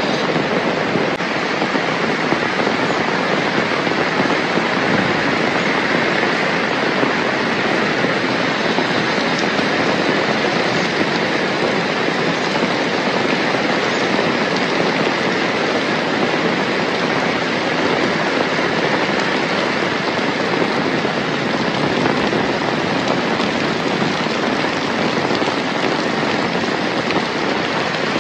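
Heavy rain pouring down, a dense, steady hiss of countless drops that does not let up.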